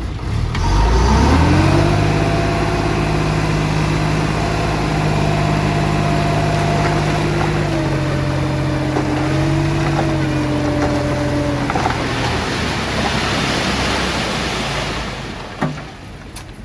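Heavy construction machine's diesel engine revving up about a second in and holding steady high revs, easing off at about twelve seconds into a rushing noise, with one sharp knock near the end.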